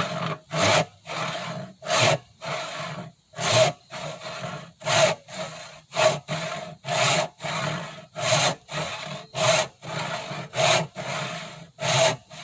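Hand saw cutting through a wooden rail in steady back-and-forth strokes, a louder cutting stroke about every second and a quarter with a lighter return stroke between.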